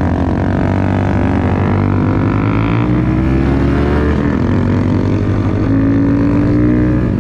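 Honda Grom's small single-cylinder motorcycle engine running under throttle while riding. Its pitch climbs, drops about four seconds in as it shifts or eases off, then climbs again.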